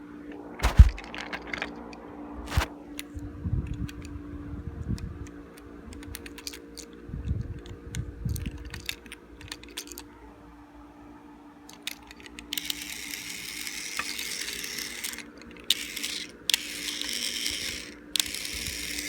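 Plastic clicks and knocks as a broken Plarail battery toy train is handled, then, from about two-thirds of the way in, the toy's small motor and gears whirring in short runs that stop and start several times.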